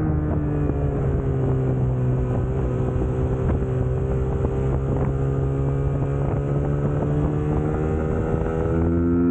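Suzuki GSX-S150's single-cylinder engine pulling the motorcycle along at a nearly steady speed. Its note dips slightly at the start, then holds and climbs slowly, with wind noise over the microphone.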